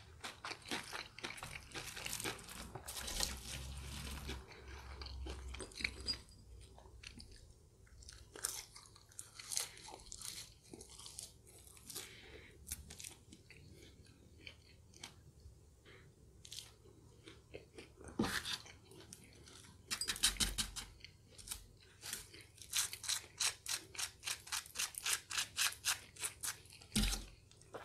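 Close-miked chewing and crunching of crispy fried food, many short crackles at a time, busiest at the start and again near the end with a quieter stretch in the middle.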